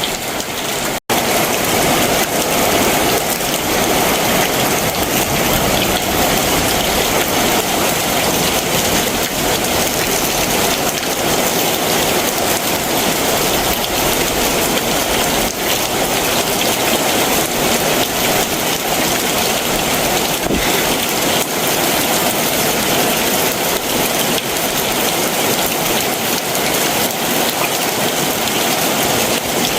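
Heavy summer monsoon rain pouring down in a steady hiss, with a split-second dropout in the sound about a second in.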